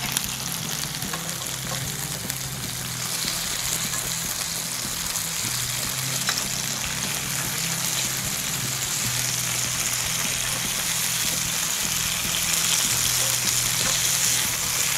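Sliced onions and garlic frying in butter and oil in a hot pan: a steady sizzle that grows louder about three seconds in and again near the end.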